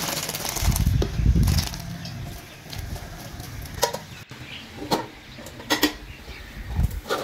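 A low rumble about a second in, then scattered short bird calls.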